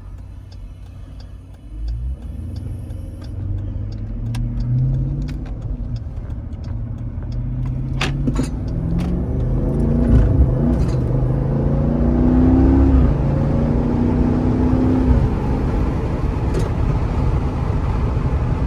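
Jeep Grand Cherokee SRT's V8 exhaust as the vehicle is driven. The engine comes in about two seconds in and revs up and down several times, getting louder toward the middle and staying loud to the end.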